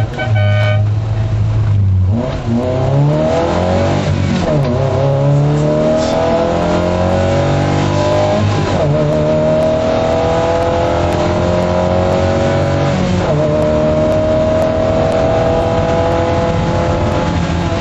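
MG F rally car's K-series four-cylinder engine heard from inside the cabin, accelerating hard through the gears. After a steady low note for about two seconds, the engine pitch climbs, drops sharply at three upshifts and climbs again each time, then eases off near the end.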